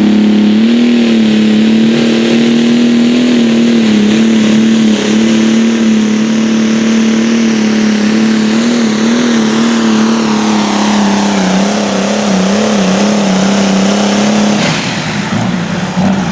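Competition pulling vehicle's engine held at full throttle during a pull, its pitch steady and wavering slightly near the end. Its note drops away abruptly about fourteen and a half seconds in as the run ends.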